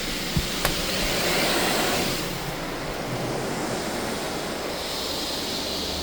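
Touchless car wash gantry spraying water onto the car, heard from inside as a steady rushing hiss that swells and eases as the spray passes. Two sharp knocks come under a second in.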